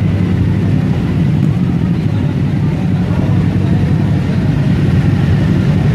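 Motorcycle engine running at a steady speed, a constant low drone with no change in pitch.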